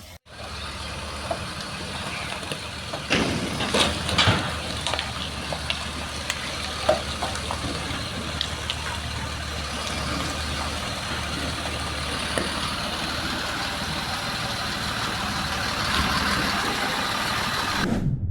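Steady noise of a storm-flooded street, with a vehicle engine running underneath. A few knocks come about three to four seconds in.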